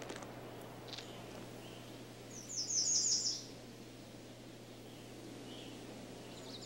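A songbird's short, fast trill of about six high, falling notes about two and a half seconds in, over a faint steady hum.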